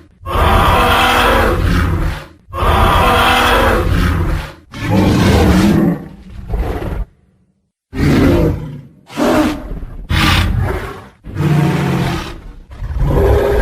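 Tyrannosaurus rex roar sound effects: a string of deep, growling roars, each one to two seconds long, with a second of silence about halfway.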